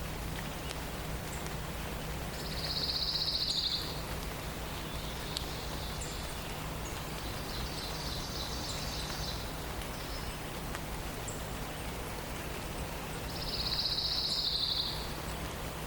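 A songbird singing a short, rapid, high trill, twice loudly and once more faintly between them, over a steady background hiss.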